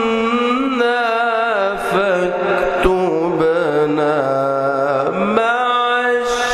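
A man's melodic Quran recitation (tajweed): one voice holding long, ornamented notes that waver and glide in pitch. The pitch sinks through the middle and rises sharply about five seconds in.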